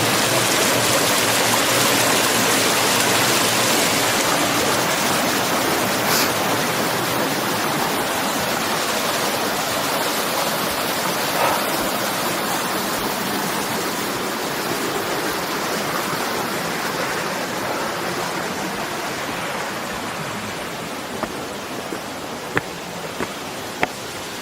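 Rushing water, a steady dense rush that slowly grows fainter, with a few sharp clicks near the end.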